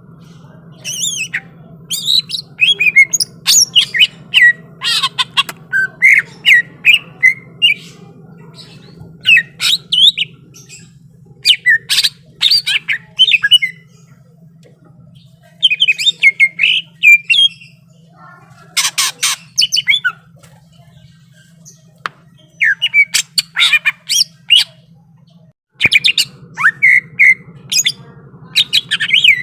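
Cucak ijo (green leafbird) singing in fast runs of sharp chirps, whistles and harsh call notes, broken by short pauses. This is the bird in full, excited song that keepers call 'gacor', in a fighting mood.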